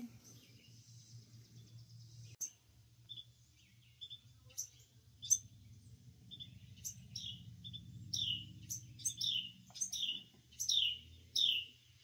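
Small songbird giving repeated sharp, downward-sweeping chirps, sparse at first and coming faster in the second half, two or three a second near the end. The calls are taken as the mother bird's alarm at a person near her nest of fledglings.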